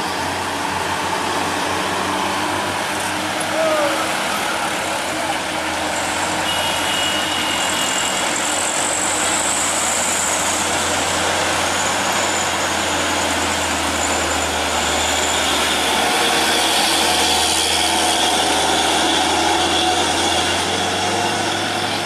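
Heavy truck engine running as the truck passes, with continuous road noise.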